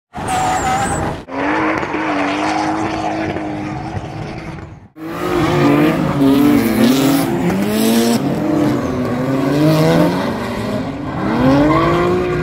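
Drift car engines revving hard, their pitch climbing and dropping over and over, with tire squeal. The sound breaks off sharply twice, about one and five seconds in, then starts again.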